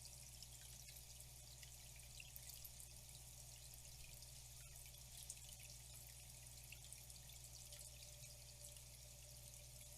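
Faint flowing water trickling and dripping, a steady hiss flecked with small splashes, over a steady low hum.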